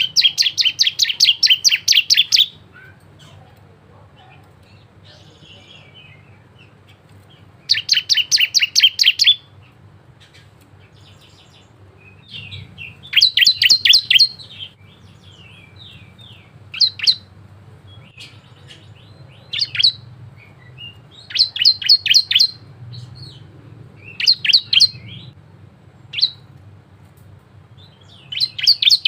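A ciblek (prinia) songbird singing in bursts of fast, sharp, evenly repeated notes, about two seconds per burst, with pauses between. Later in the stretch the phrases come shorter and closer together.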